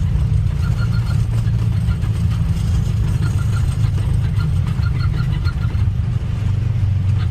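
Steady low rumble inside an airliner's cockpit during the landing rollout, the engines and the wheels rolling on the runway as the aircraft slows on autobrake.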